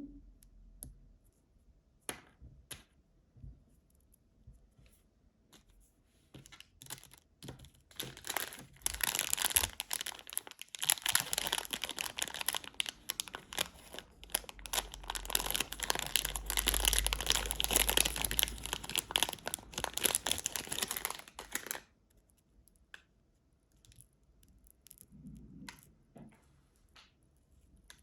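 Candy wrapper packaging being torn open and crinkled: a few light clicks and rustles, then a long stretch of continuous crackling crinkling that stops abruptly, followed by a few faint taps.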